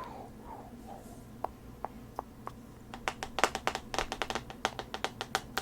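ASMR tapping and clicking from hand movements: a few scattered clicks, then quick, close-packed taps from about three seconds in.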